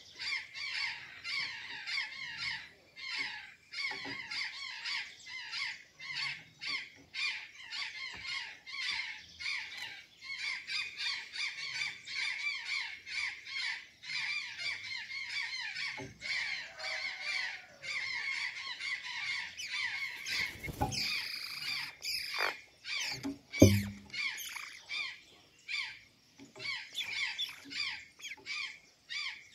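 Azure jays calling in a dense, rapid run of short repeated squawks. A brief rustle comes about 21 seconds in, and a sharp thump near 24 seconds is the loudest sound.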